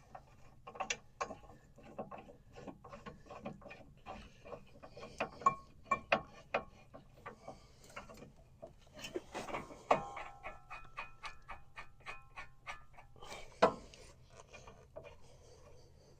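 Hand ratchet clicking in quick runs as the brake caliper bracket bolts are run in, among scattered metallic clinks and knocks of tools and parts, with two louder knocks about ten and thirteen and a half seconds in.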